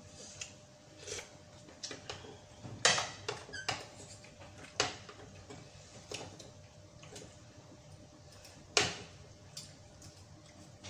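Spoons and forks clinking and scraping against ceramic bowls and plates during a meal: scattered sharp clicks, with two louder clinks about three seconds in and near the end.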